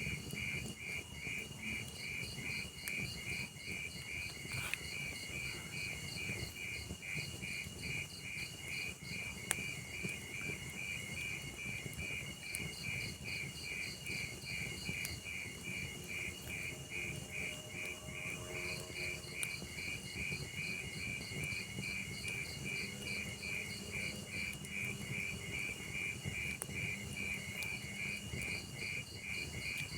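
Crickets chirping in a steady, even pulse, with a second, higher-pitched cricket chirping on and off. Underneath is the faint low crackle of a log fire, with an occasional sharp pop.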